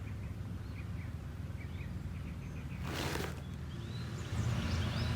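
Outdoor ambience: small birds chirping repeatedly over a steady low rumble, with a short burst of noise about three seconds in.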